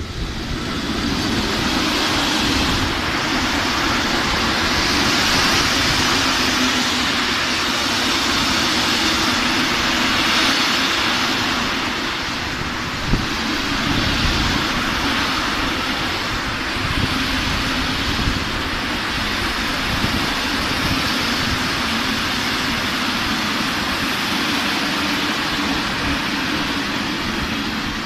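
A loaded coal train of open freight wagons rolling past at speed, its electric locomotive going by at the start. Wheels on rail make a steady rumble and hiss, with a single sharp knock about 13 seconds in.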